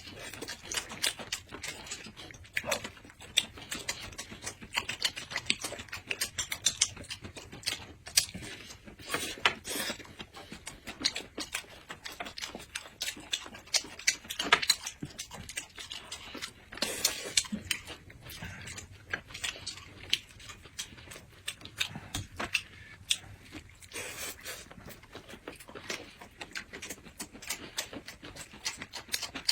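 Close-up eating sounds: food being chewed and crunched, with many small irregular clicks and crackles.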